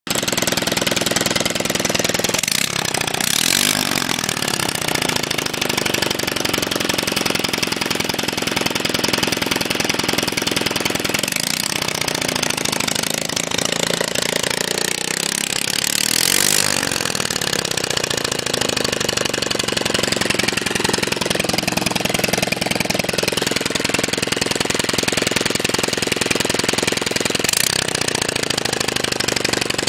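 Small single-cylinder engine of a 97cc Baja mini bike running off the bike with no exhaust pipe fitted, so it fires straight out of the open exhaust port. It runs steadily, with a few brief changes in engine speed.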